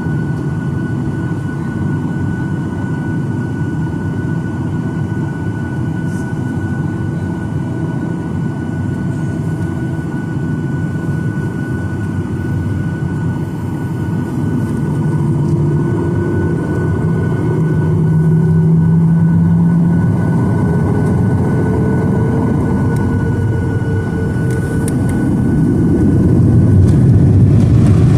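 Boeing 737-900ER's CFM56-7B jet engines heard from inside the cabin: a steady engine drone with a constant high whine, rising in pitch and getting louder from about halfway through and again near the end as the engines spool up.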